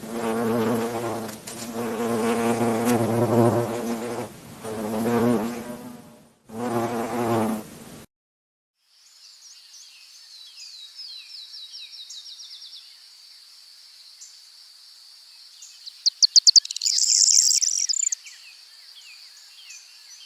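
Buzzing of a flying insect, in swelling bursts. After a short gap it gives way to a high, steady insect trill with fine chirps, which grows louder with a rapid clicking run about sixteen seconds in.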